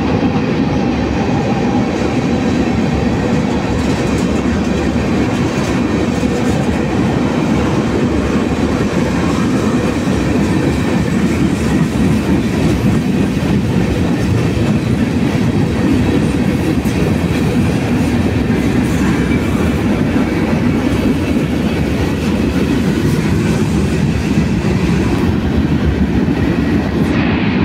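Freight train of tank cars and covered hoppers rolling past: a steady, loud rumble of steel wheels on rail with the clickety-clack of wheels over rail joints.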